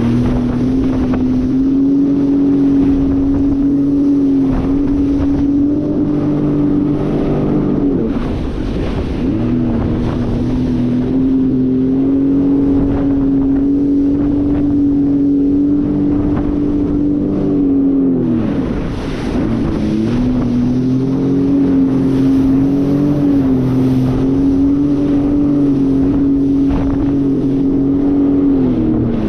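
Jet ski engine running at speed with wind buffeting the microphone. The throttle eases off twice, about eight seconds in and again near eighteen seconds, and the engine note drops before climbing back up.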